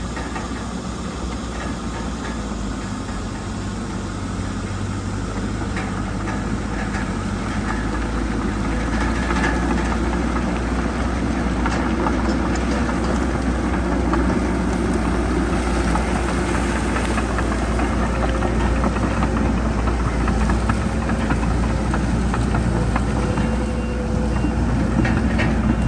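Diesel engine of heavy earthmoving equipment running steadily, growing louder over the first half as the machine comes closer or works harder, with a few faint clanks.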